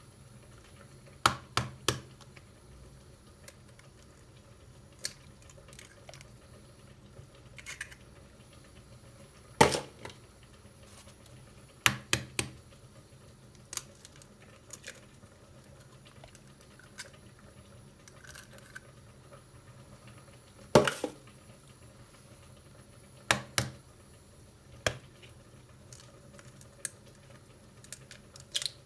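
Scattered clicks and knocks of household objects being handled and set down, a few sharper knocks among lighter taps, over faint room hiss.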